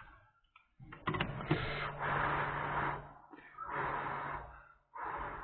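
Hot-air rework station blowing while soldering a new U2 charging-controller chip onto an iPhone 5s board: a few clicks, then a steady low hum under rushing air that comes in three long bursts.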